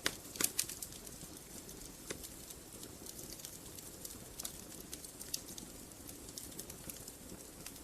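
Wood fire crackling in a fireplace: a low steady hiss of burning logs with irregular sharp pops and snaps, a few louder pops about half a second in.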